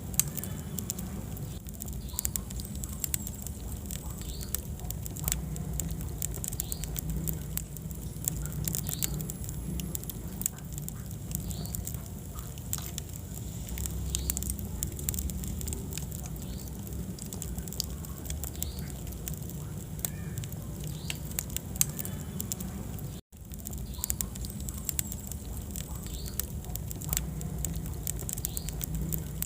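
Wood fire burning in a fireplace: a steady low rumble of flames with frequent sharp crackles and pops from the burning logs. The sound cuts out for an instant about two-thirds of the way through.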